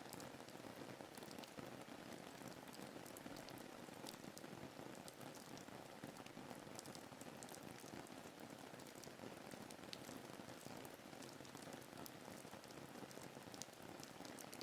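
Faint, steady rain ambience: an even hiss of rainfall with scattered drops ticking.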